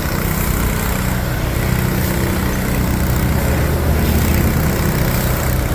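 Water tanker truck's engine and its gasoline-powered water pump running steadily at constant speed, a continuous drone.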